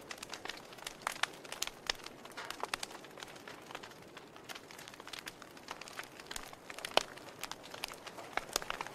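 Log fire crackling: irregular sharp pops and snaps over a soft hiss, with one louder pop about seven seconds in.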